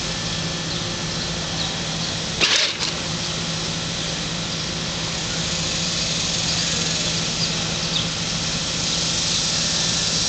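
A child's ride-on tractor running along with a steady motor hum and rolling noise, and one short loud burst about two and a half seconds in.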